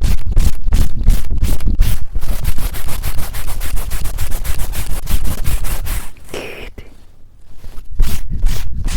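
Fast, aggressive scratching and rubbing right on a TASCAM recorder's microphone, in quick strokes about four or five a second. The strokes merge into continuous scraping about two seconds in, turn much quieter for a couple of seconds later on, and pick up again as quick strokes near the end.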